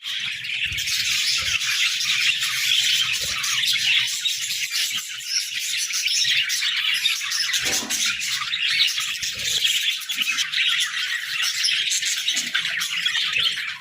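A flock of budgerigars chirping continuously, many short high calls overlapping.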